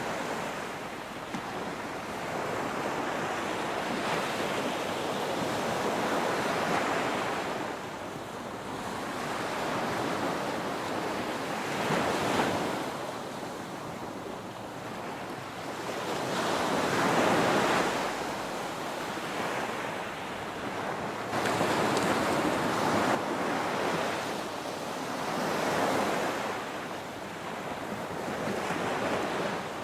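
Ocean surf breaking and washing up a beach, swelling and ebbing every few seconds, with wind buffeting the microphone.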